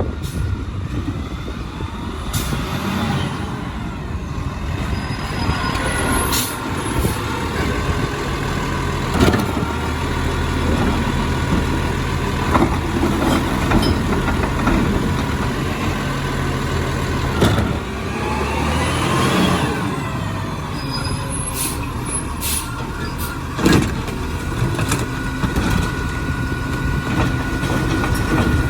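Peterbilt 520 garbage truck with a Labrie Helping Hand automated side-loader running: a steady engine drone with a higher whine, a whine rising in pitch about two-thirds of the way through, and several sharp knocks.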